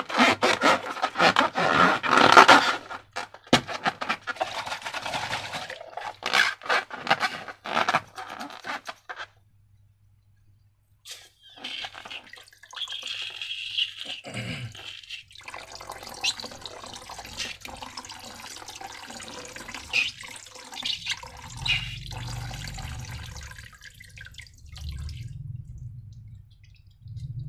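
Slime being handled and squeezed out of transparent balloons: wet squelching and sticky crackling, dense for the first nine seconds, then a brief pause and softer squishing with scattered clicks.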